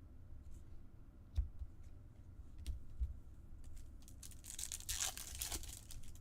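A trading-card pack wrapper being torn open: a few light clicks of cards being handled, then a second or so of tearing and crinkling near the end.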